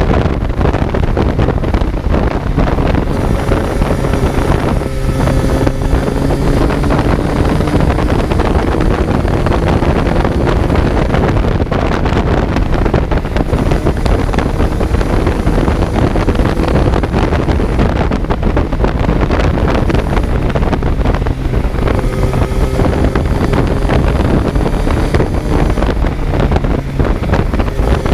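Kawasaki Z900's inline-four engine running on board at speed, largely buried under heavy wind buffeting on the microphone. The engine note climbs slowly twice as the bike pulls through a gear.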